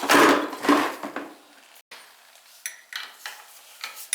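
Metal clanking and clinking of tools and oil-burner parts being handled: a loud cluster of knocks in the first second, then a string of lighter, separate clicks.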